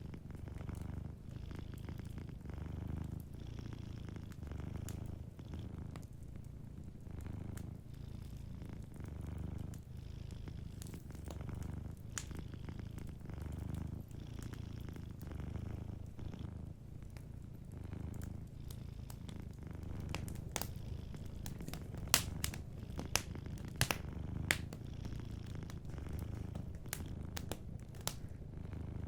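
A cat purring steadily in low pulses that swell about every two seconds, over the crackle of a fireplace fire, whose sharp pops come more often and louder around two-thirds of the way through.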